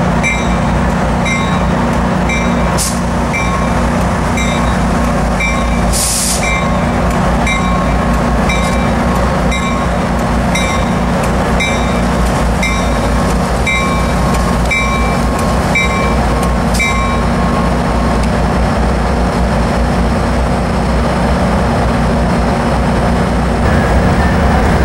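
Diesel passenger train arriving, its engine running with a steady low rumble while a bell rings evenly, a little faster than once a second, then stops about two-thirds of the way through. A short hiss of air is heard about six seconds in.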